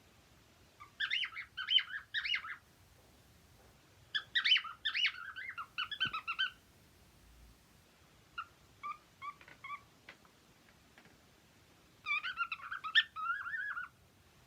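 Pet cockatiels singing: bursts of warbling chirps and whistles in four phrases with pauses between them, the third phrase softer.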